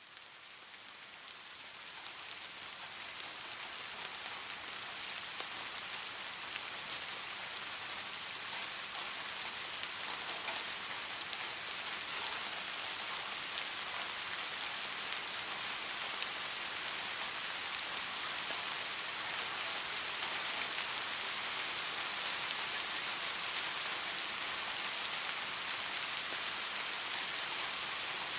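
Steady rain falling, an even hiss with many fine drop ticks, fading in over the first few seconds and then holding level.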